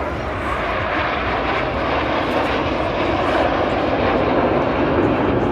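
Jet engine noise from a formation of BAE Hawk T1 jets flying past, a steady rushing sound that grows gradually louder.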